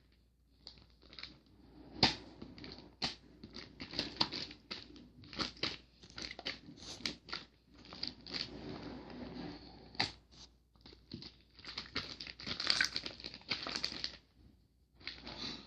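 Clear homemade glue slime being mixed and squeezed by hand, giving irregular sticky clicks and crackles several times a second with short pauses between.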